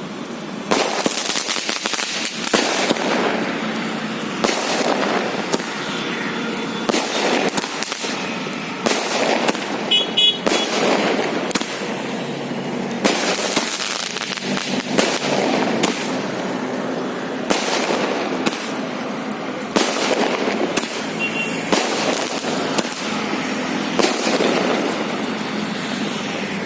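Firecrackers going off in a long, irregular run of sharp pops and cracks, some louder bangs standing out.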